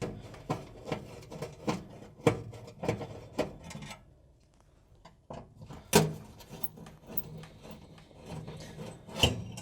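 Screwdriver undoing the two screws that hold a fan oven element, with scraping and clicks in two bouts, a short pause about four seconds in; the sharpest clicks come about six seconds in and just before the end.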